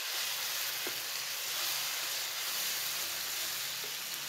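Sliced onions and ginger-garlic paste sizzling in hot oil in a non-stick wok while being stirred with a wooden spatula: a steady frying hiss.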